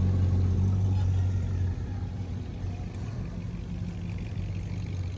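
A car engine running with a steady low rumble, loudest at first and dropping in level a little under two seconds in.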